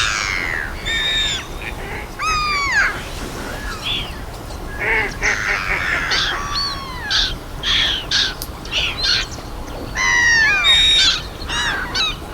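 Several birds calling: repeated harsh calls, each sliding down in pitch, coming in clusters with short gaps between.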